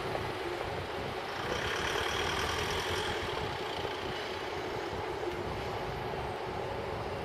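Odakyu Odawara Line electric train running through a level crossing: a steady rumble and hiss, with a brighter rush of hiss about two seconds in.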